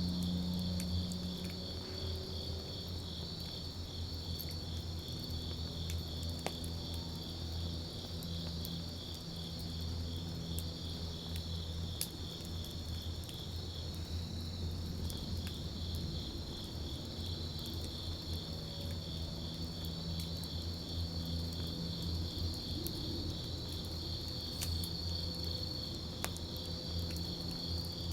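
Crickets trilling steadily in a fast, even pulse, over a wood campfire that gives a low steady burning sound and scattered sharp crackles and pops.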